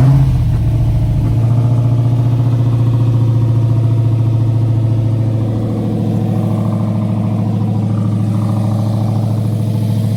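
Freshly rebuilt Chrysler car engine catching on its first startup and settling into a loud, steady idle, running without its exhaust fitted yet.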